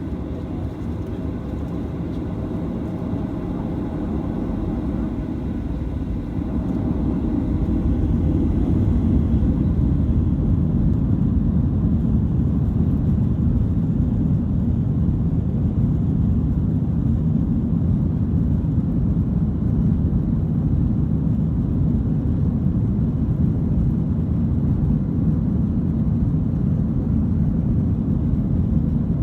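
Cabin noise of a Boeing 737-900 with its CFM56 jet engines running: a steady low rumble that grows louder about six seconds in, then holds steady.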